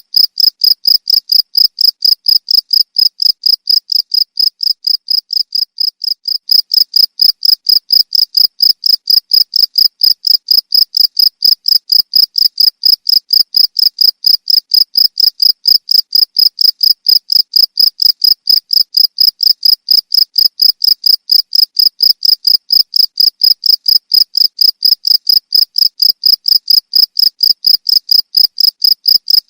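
Cricket chirping: a steady, even train of high-pitched chirps, about four a second.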